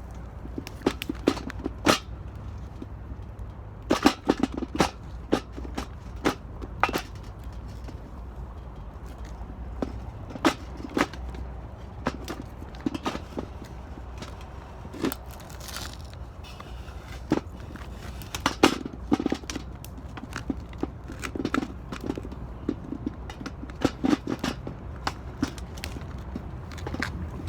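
Wood fire burning in an 18-litre square metal can, with irregular sharp crackles and pops over a steady low rumble.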